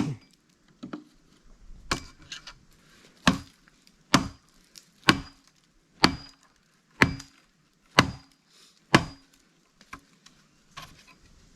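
Wooden wedge being hammered into a log to split firewood: sharp blows, about one a second, each with a short ring, the last two or three much fainter near the end.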